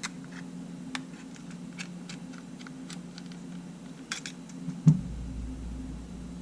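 Scattered light clicks and ticks of small camera parts and tools being handled during reassembly of a Sony A7, with a louder thump about five seconds in. A steady low hum runs underneath.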